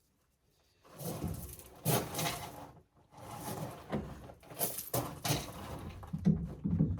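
Handling noises of plumbing drain pipe and fittings being worked on: uneven scraping, rustling and knocks that start about a second in, with a short pause near the middle.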